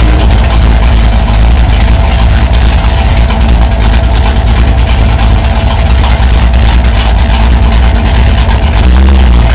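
Drag race car's engine idling loudly with a deep, steady note, heard from inside the car's cabin; the note picks up slightly near the end.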